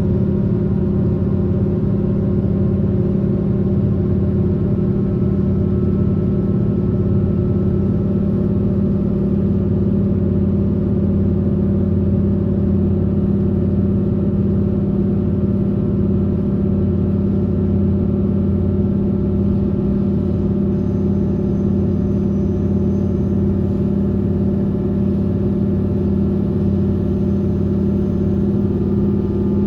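Taiwan Railway train running at a steady speed: a continuous rumble of wheels on rail with a steady hum of several held tones from the drive.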